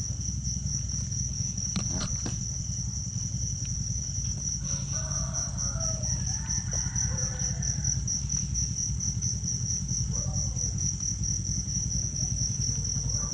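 Crickets trilling steadily, a continuous high, fast-pulsing chirp, over a steady low hum.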